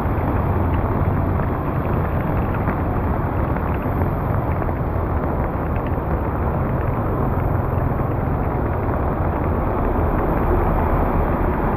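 Steady, continuous rush of floodwater at a street drain, a loud, even, low noise with no breaks.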